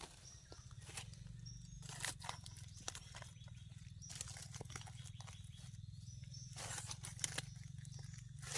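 Scattered crackles and scrapes of soil and dry forest litter as termite mushrooms are dug out of the ground, over a steady low rumble.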